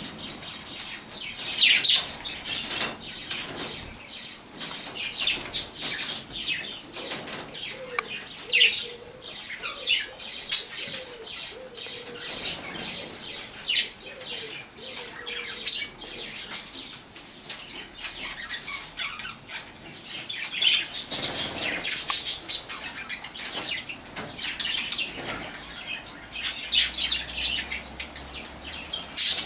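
A flock of budgerigars chattering, with a dense stream of quick high chirps and warbles.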